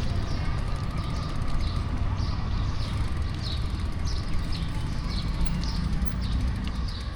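Steady low rumble of street traffic and wind from a moving bicycle, with a string of short, high, falling chirps, about two a second.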